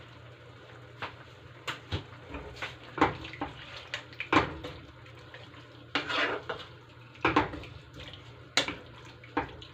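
Metal spoon clinking and scraping against a cooking pan, irregular knocks and short scrapes while tomato paste is worked in, over a steady low hum.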